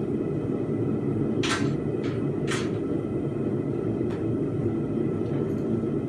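Steady roar of a running forge, with two sharp strikes on metal about a second apart near the middle.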